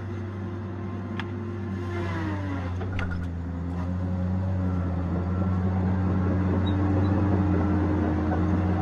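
Tigercat 870C feller buncher's diesel engine and hydraulics running steadily, with a tone dropping in pitch about two seconds in, then the machine growing gradually louder under load.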